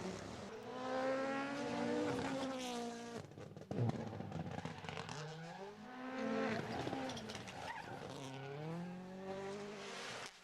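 Rally car engine (2022 WRC Rally1, a turbocharged four-cylinder) accelerating and braking through a stage. The pitch climbs through the gears and drops several times, with a sharp bang a little under four seconds in.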